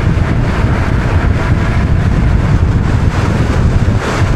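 Wind rushing over the microphone of a camera on a moving bicycle, a steady low rumble with no clear tone.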